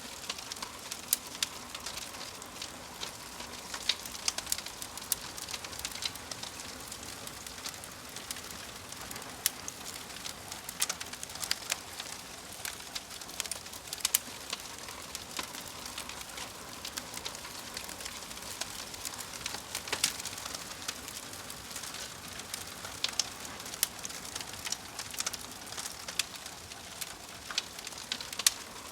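Wood fire crackling: irregular sharp pops and snaps, several a second, over a steady hiss.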